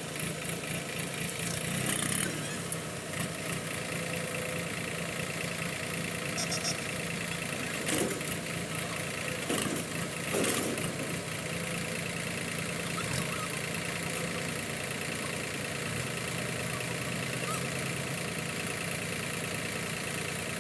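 Heavy diesel engine idling steadily, with a few short knocks about two, eight and ten seconds in.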